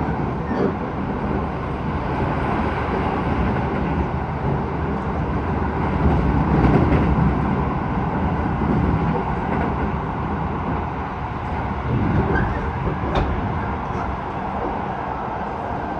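Keisei 3000 series electric commuter train running at speed, heard from inside the car: a steady rumble of wheels on rail and running gear, with a few faint clicks about three-quarters of the way through.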